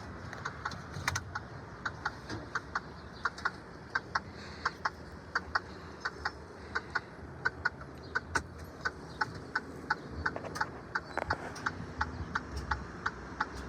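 Steady, evenly spaced ticking clicks, about three a second, over a faint low background hum.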